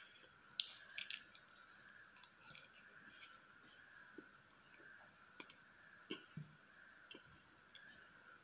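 Close-miked mouth sounds of eating soft whipped-cream cake: faint wet chewing and lip smacks with scattered sharp clicks, over a faint steady background tone.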